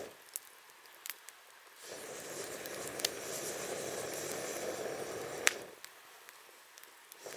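Wood fire crackling, with scattered sharp pops; the loudest pop comes about five and a half seconds in. A low, even rushing noise comes in about two seconds in and fades out near six seconds.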